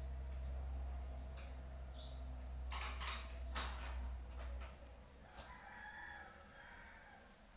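Birds chirping in short high calls, with a few sharp knocks and a steady low hum that cuts off a little past halfway; fainter calls follow near the end.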